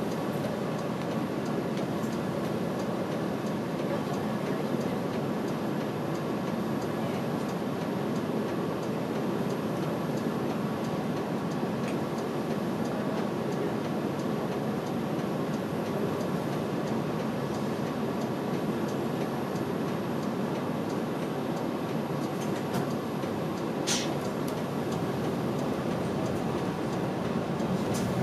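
Route bus heard from inside while driving: steady engine and road rumble with body rattle. A brief high squeak about 24 seconds in.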